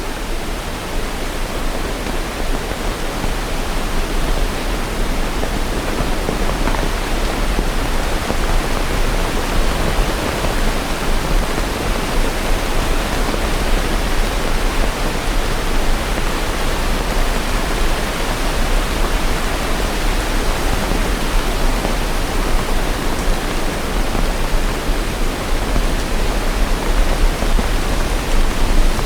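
Steady rain, a dense, even hiss with a deep rumble underneath and no separate drops or thunder.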